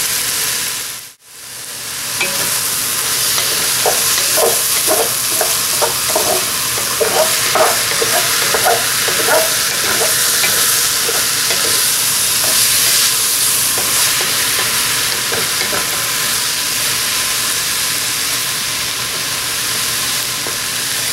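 Sliced mushrooms and onions sizzling in a hot pot, with a steady hiss. A wooden spatula stirs and scrapes through them, giving a run of short scraping knocks a few seconds in; the sound cuts out briefly about a second in.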